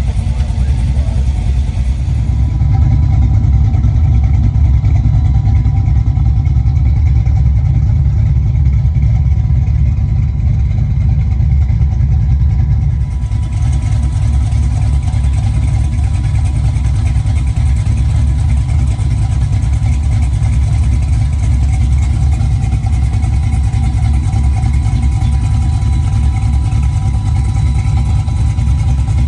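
Aluminum 6.0-litre LS V8 in a 1965 Chevy Nova idling steadily, a constant low rumble while the freshly swapped engine runs through its first warm-up.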